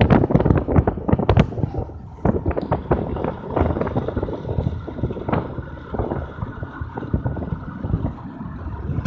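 Wind buffeting the microphone in uneven gusts, with irregular crackles and knocks, loudest at the start.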